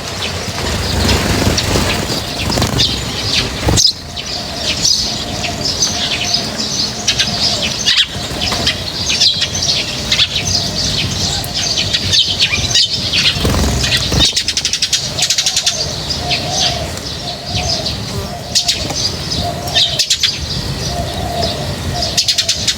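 A group of small birds chirping continuously, dense overlapping short high calls, with a few brief rushes of wing flapping.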